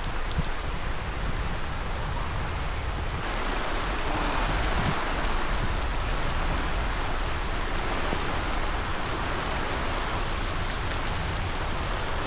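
Heavy thunderstorm rain pouring down as a dense, steady hiss. It turns fuller and brighter about three seconds in.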